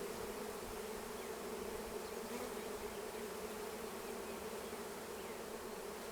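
Honey bees buzzing around an open hive: a steady, even hum of many bees.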